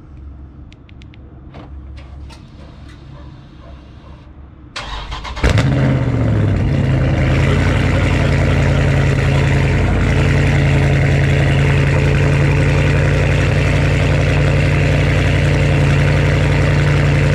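A few faint clicks, then about five seconds in the Dodge Charger's HEMI V8 is cranked and catches on a cold start, its pitch dropping briefly as it settles into a loud, steady idle. The exhaust sound comes through catless stainless mid pipes, with no catalytic converters.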